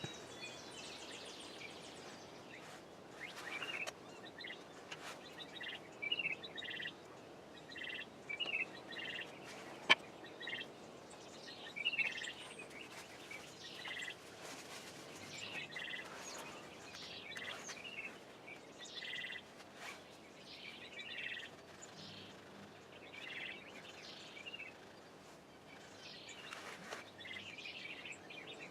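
Small birds chirping over a steady background hiss, short calls coming every second or two. One sharp click about ten seconds in.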